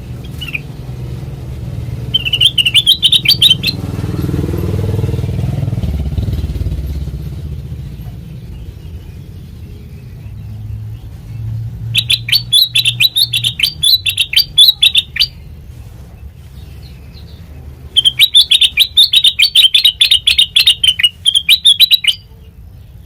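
Kutilang mas bulbul singing in three bursts of rapid chattering notes, each lasting one to four seconds. A low rumble swells and fades in the background a few seconds in.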